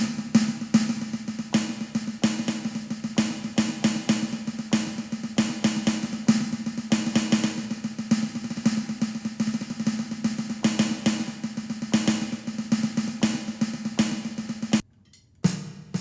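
Donner DED-200 electronic drum kit's snare pad played through its sound module, giving sampled snare hits struck rapidly, several a second. The playing stops briefly near the end and then starts again.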